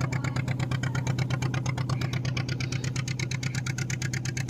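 Fishing boat's engine running steadily with a rapid, even chug.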